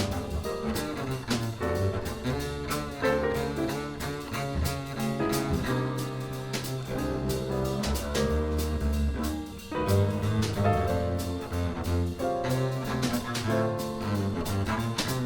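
Jazz piano trio playing: acoustic piano, upright double bass and drum kit with cymbals.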